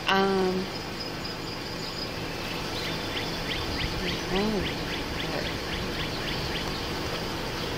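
A bird trilling: a run of short, high ticking notes, about four a second, lasting roughly four seconds. Two brief hummed voice sounds stand out louder, one at the very start and a rising-and-falling one about four seconds in.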